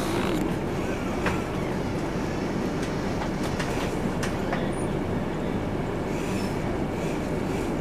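Diesel-hauled passenger train approaching on the adjacent track: a steady low rumble with a few faint clicks.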